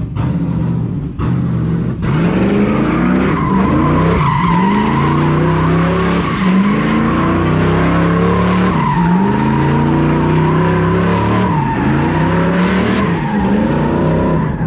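Truck burnout: the tyres squeal steadily while the engine revs up and down over and over.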